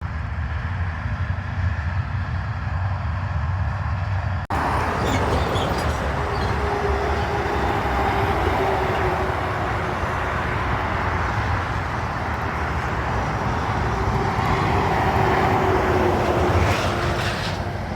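Heavy truck traffic on a highway: diesel engine rumble and tyre noise, continuous and fairly loud. The sound changes abruptly about four and a half seconds in, and swells near the end as a vehicle passes close.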